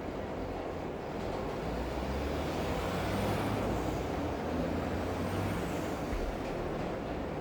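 Rainy city ambience: a steady even hiss under a low vehicle rumble that swells about two seconds in and eases off near six seconds. Faint high whines rise and fall around the middle.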